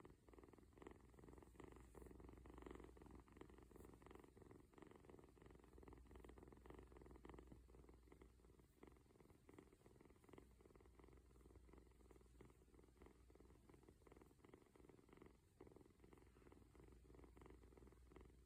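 A kitten purring softly and steadily, a continuous fast rumble.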